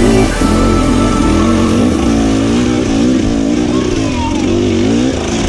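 Enduro dirt-bike engine revving hard, its pitch rising and falling with the throttle as the bike climbs a rocky gully.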